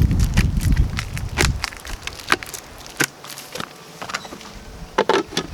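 Lids being pressed down onto water buckets: a series of sharp clicks and knocks as they are fitted and snapped in place, over a low rumble of handling during the first second and a half.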